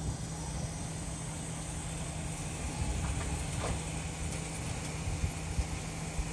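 Raypak gas pool heater running: a steady burner rumble with a constant low hum and a couple of faint brief noises about three seconds in.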